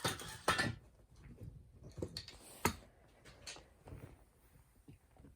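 Scattered light clicks, taps and brief scrapes of small metal tools and chainsaw parts being handled, while the ignition points gap is checked with a feeler gauge; the sharpest knocks come about half a second in and again near the middle.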